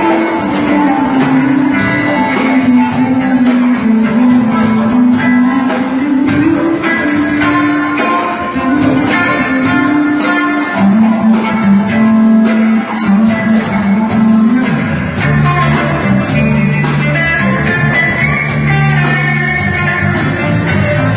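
A live band playing an improvised instrumental jam: guitar over a low line that steps from note to note, with a steady beat.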